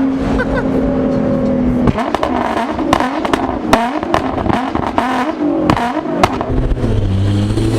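A car engine held at high revs, then revved up and down over and over with sharp cracks from the exhaust, dropping to a low idle near the end.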